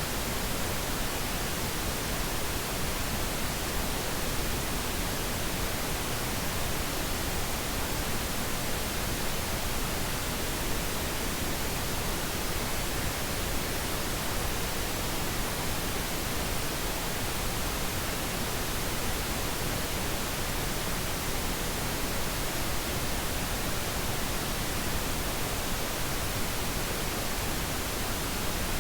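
Steady pink noise: an even, unchanging hiss across the whole range, played as a sleep aid.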